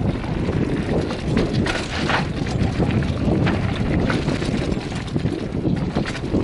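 Mountain bike rolling fast over a rough dirt trail: wind buffeting the microphone, tyres rumbling over the ground, and scattered sharp knocks and rattles from the bike.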